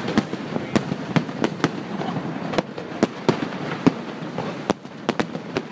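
Fireworks display: a rapid, irregular series of sharp bangs from bursting shells, several a second, over continuous crackling.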